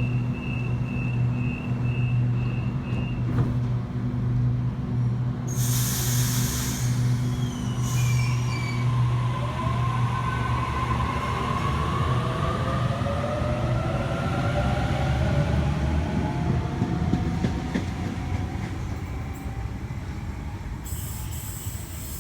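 Waratah electric train at the platform: a string of short door-closing beeps, a burst of air hiss, then a rising electric motor whine as the train pulls away, over a steady low hum.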